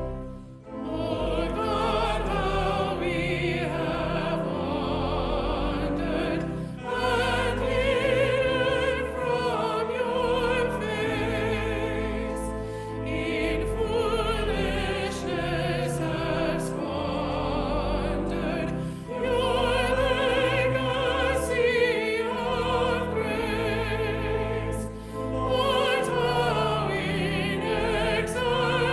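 Classical-style singing with a wide vibrato over instrumental accompaniment, sung in long phrases with brief pauses between them: a church anthem or solo in worship.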